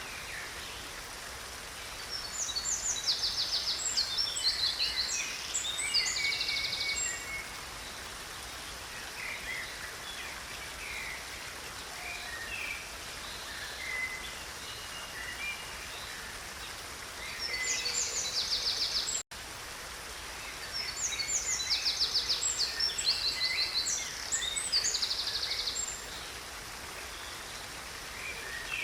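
Steady rush of a stream with a songbird singing long phrases of rapid, high trills, in two main bursts of several seconds each and a shorter one between them. The sound cuts out for an instant about two-thirds through.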